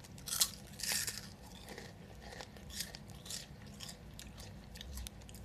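A person biting into a Flamin' Hot Cheeto and chewing it: two sharp crunches within the first second, then a run of softer crunches about every half second as it is chewed.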